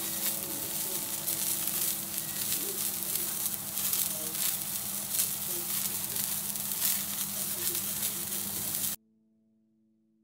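Salmon fillet frying in hot oil in a steel frying pan, sizzling with a dense crackle. The sizzle cuts off suddenly near the end.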